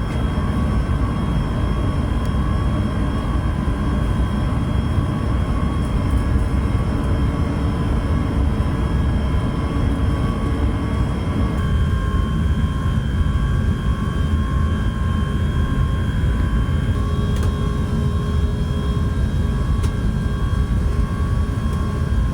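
Airbus A380 cabin noise with the jet engines running: a steady low rumble under thin, steady whining tones. About halfway through, the sound shifts and the middle of the rumble thins out.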